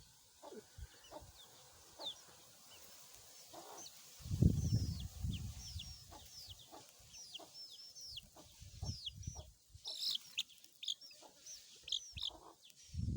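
Chicks peeping: many short, high, falling cheeps, several a second, sounding alarmed. A loud low rumble swells about four seconds in, with a weaker one near nine seconds.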